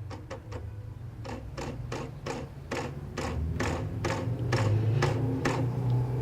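A run of short metallic clicks and taps, two or three a second, from hand work on a manual gearbox's gear-shift linkage as it is being removed. Underneath is a low steady hum that grows louder toward the end.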